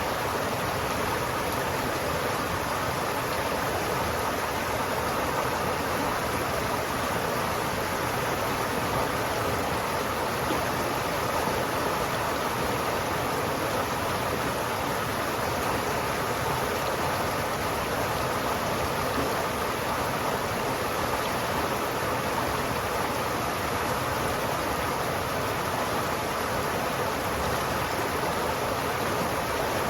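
River water flowing steadily, a continuous rushing with no breaks or changes.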